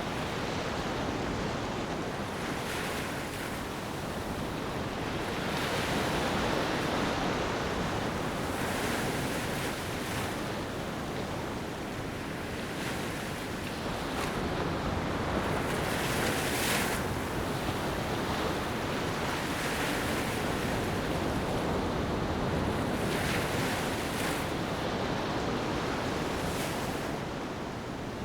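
Ocean waves washing onto a beach: a steady rush of surf that swells every three to four seconds.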